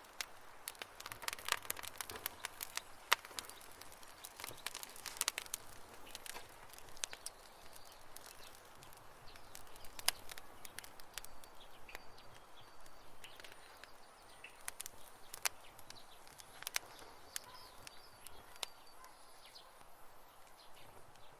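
Wood fire crackling: irregular sharp pops and snaps over a faint hiss, dense in the first several seconds and sparser after that.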